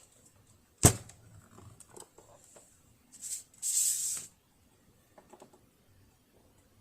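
Handling noises from taking apart a sewing machine's underside: one sharp click about a second in, a few light clicks, and a short hissing rustle around three to four seconds in.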